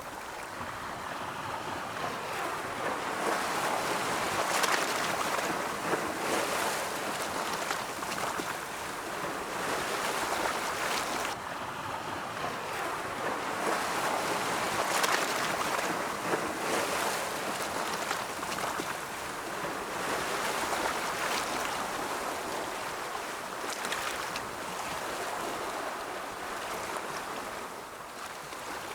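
Ocean surf, waves rolling in and washing back in a continuous rush that swells and eases over several seconds, with the biggest surges about five seconds in and again around the middle.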